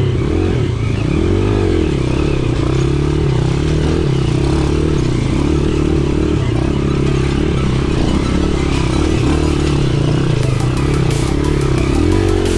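Dirt bike engine revving up and down over and over as it works its way uphill off-road, the pitch rising and falling with the throttle.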